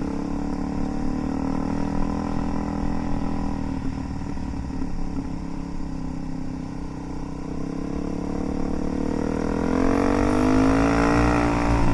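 Motorcycle engine running steadily at cruise with wind noise, then accelerating with a rising pitch in the last few seconds.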